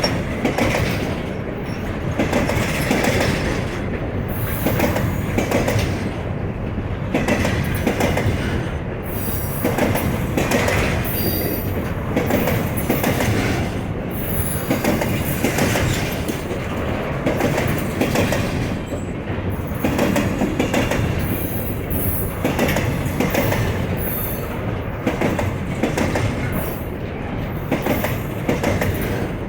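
Freight train of container wagons rolling past, steel wheels clattering over the rail joints with brief wheel squeal now and then.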